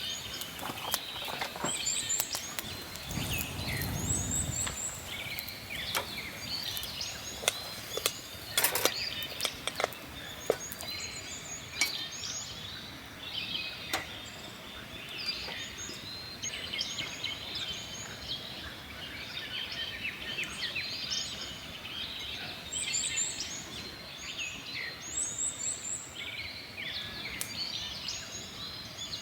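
Several wild birds chirping and calling throughout, with scattered sharp clicks mostly in the first half and a soft low rumble about three seconds in.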